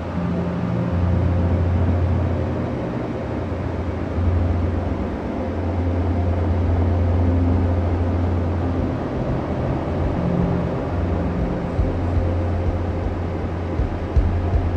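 Bus engine drone heard from inside the bus, a strong low hum that fades and returns every few seconds over a steady rumble of road noise.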